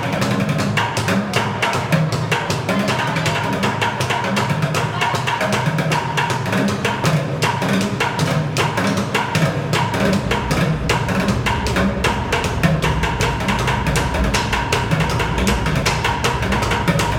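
Plastic bucket drumming: rapid, dense stick strikes on plastic buckets over hollow low thuds. A deeper low rumble joins about ten seconds in.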